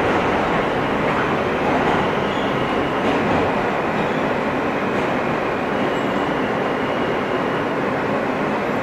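Steady noise heard inside an R160 New York City subway car.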